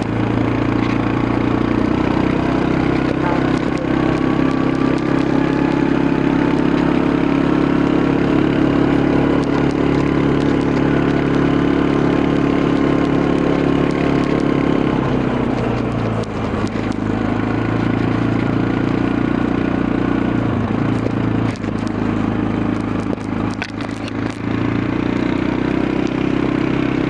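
Quad bike engine running steadily, dropping in pitch about fifteen seconds in and picking up again near the end, with a few sharp clicks or knocks along the way.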